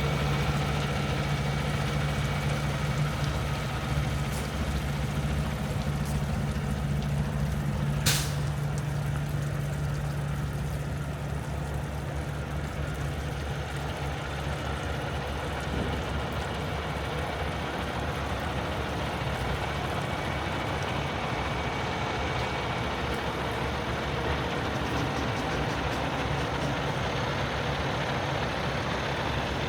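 Cummins X15 diesel engine of a Peterbilt 567 dump truck idling steadily, with one brief sharp sound about eight seconds in.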